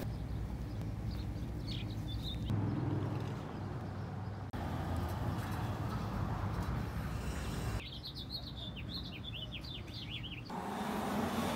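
Outdoor ambience in short cut-together pieces: small birds chirping, thickest in a burst of quick chirps in the second half, over a low steady rumble.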